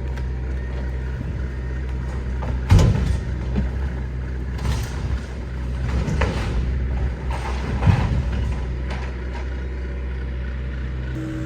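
John Deere excavator's diesel engine running steadily while it tears into the house, with four loud crashes of breaking and falling debris, the loudest about three seconds in.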